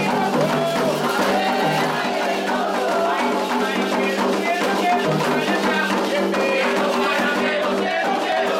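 Candomblé ritual music: hand drums and rattles keep a steady, busy rhythm under voices singing a chant.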